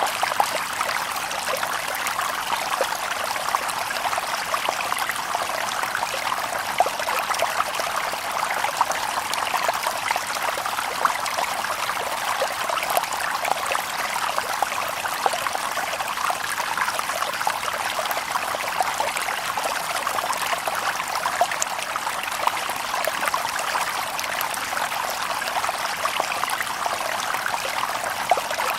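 Shallow stream babbling over stones: a steady run of water with many small splashes and trickles, no birds.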